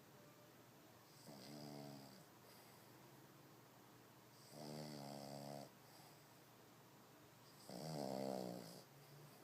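A sleeping dog snoring like a person: three snores about three seconds apart, each lasting about a second.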